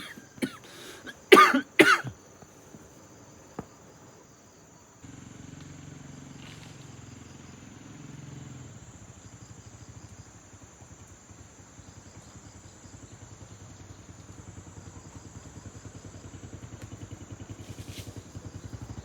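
Two short, loud coughs about a second in. From about five seconds, a small motorcycle engine runs at low speed with a fast, even pulse and slowly grows louder as it approaches.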